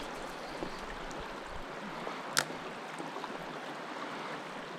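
Creek water running steadily, with one sharp click about halfway through.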